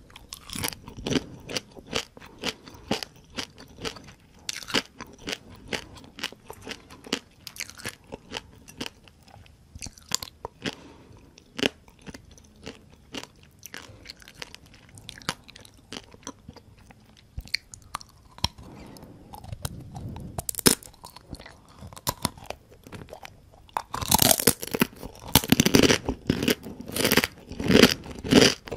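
Close-miked chewing and crunching of crispy fried small rice-field crabs eaten shell and all, a run of sharp crackling crunches. The crunching comes thickest and loudest a few seconds before the end.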